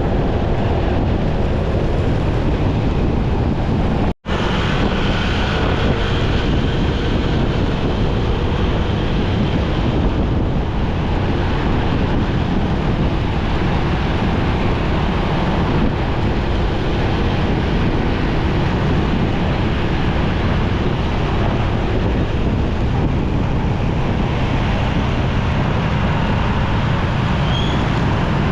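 Wind rushing over the microphone of a moving motorcycle, with its engine and the surrounding traffic underneath as a steady rumble. The sound cuts out completely for a split second about four seconds in.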